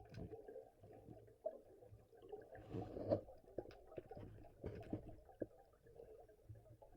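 Muffled, low rush of moving river water with scattered small clicks and knocks.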